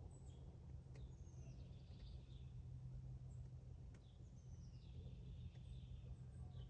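Faint birdsong in woodland: a songbird gives two short phrases of high, downward-sliding notes, one about a second in and one about four seconds in. A low steady hum and a few faint sharp clicks sit beneath it.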